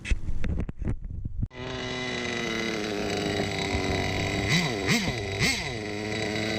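A few sharp knocks, then a small nitro RC car engine idling with a steady buzz. About halfway through, the throttle is blipped three times in quick succession, each a short rise and fall in pitch.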